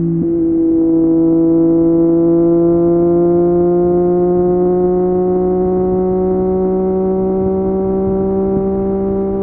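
Triumph Street Triple 765 RS three-cylinder engine pulling through an Akrapovic exhaust. It holds one gear with its pitch climbing slowly and steadily as the bike gathers speed.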